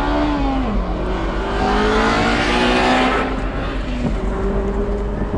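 Abarth 124 Spider's turbocharged 1.4-litre four-cylinder revved with the car at a standstill, heard from the open cockpit. The revs dip about a second in, climb and hold with a louder rasp for a second or so, then drop back past the middle.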